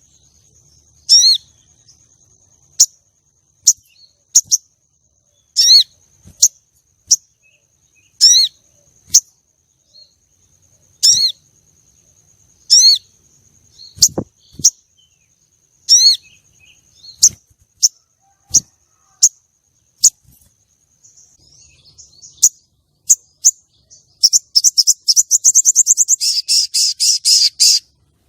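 Female sogon calls: short sharp whistled notes with a quick pitch glide, repeated every second or two, then a fast rattling trill lasting about three seconds near the end.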